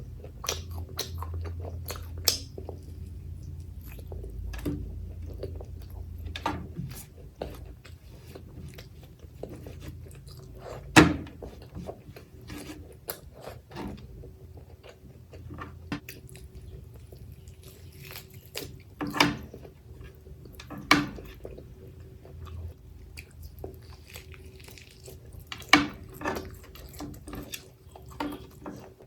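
Close-up chewing and eating sounds from a mouthful of mutton curry with rice and onion: wet smacking and squelching mixed with sharp clicks, several of them much louder, over a low steady hum.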